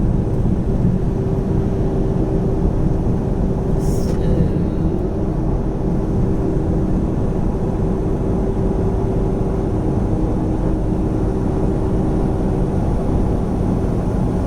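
Semi-truck running at highway speed, heard from inside the cab: a steady drone of engine and road noise with a constant hum in it. There is a brief high-pitched tick about four seconds in.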